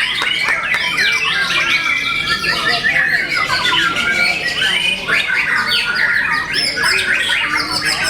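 Several caged white-rumped shamas (murai batu) singing at once in a contest: a dense, unbroken tangle of overlapping whistles, trills and harsh chatter.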